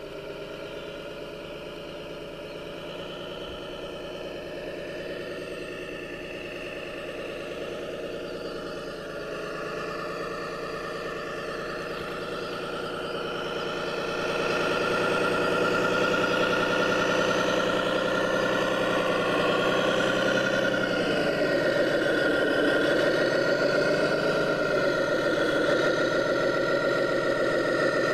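Radio-controlled hydraulic truck running, a steady engine-like hum with a higher whine over it. It gets louder about halfway through, and near the end its pitch dips and comes back up twice.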